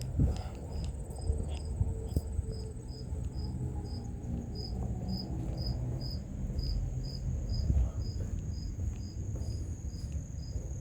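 Insects chirping: a high chirp repeating about two to three times a second with a steady high trill above it, over a continuous low rumble.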